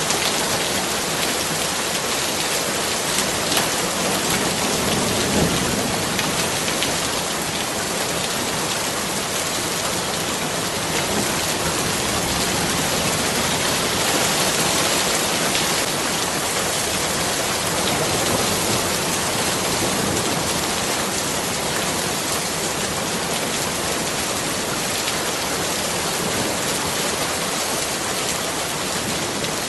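Steady, heavy rainfall: a continuous hiss of rain falling on surfaces, with a few sharper drop hits a few seconds in.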